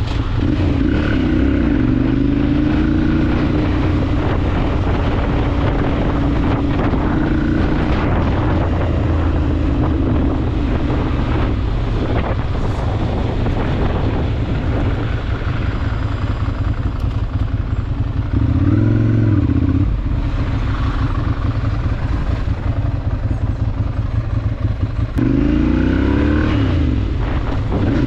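Ducati Monster 796's air-cooled L-twin engine running under way, its note rising and falling with the throttle. It revs up briefly about two-thirds through and climbs again near the end.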